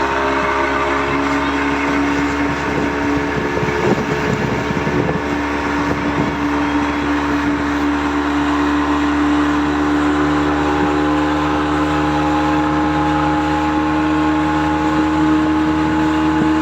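Towing motorboat's engine running steadily at speed, with a rushing noise of wind and water.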